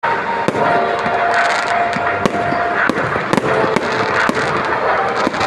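Fireworks crackling continuously, with sharp irregular cracks about twice a second.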